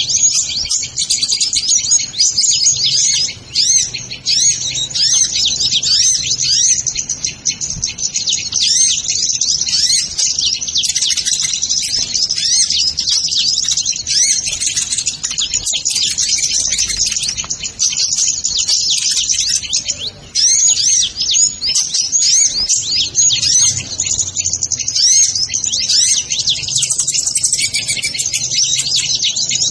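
Sunbirds (kolibri ninja) twittering: a dense, unbroken stream of rapid, high chirps and short up-and-down whistles, with many calls overlapping.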